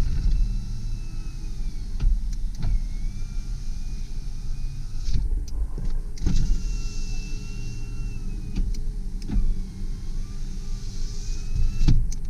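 Power window motors of a 2001 Mazda B4000 pickup whining in four runs of about two seconds each, every run ending in a knock as the glass stops; the windows work properly. A steady low engine rumble runs underneath.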